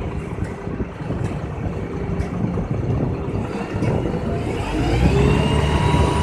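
Diesel engine of a Nissan UD Trucks CWE 280 concrete mixer truck running, revving up with a rising pitch from about four and a half seconds in.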